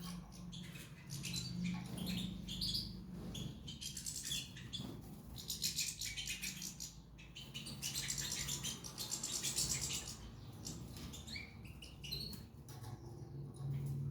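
Cage songbirds chirping and singing, with short high calls and fast rattling trills; the trilling comes in two busy stretches, one a third of the way in and one past the middle.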